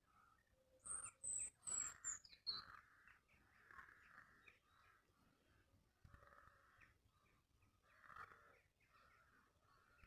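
Birds calling faintly: a thin, high call sliding downward about a second in, then a string of short, lower calls spaced through the rest.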